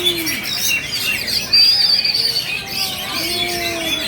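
Several oriental magpie-robins singing at once, with overlapping whistled phrases, chirps and trills, and a loud buzzy trill about halfway through. A low hooting note sounds twice underneath.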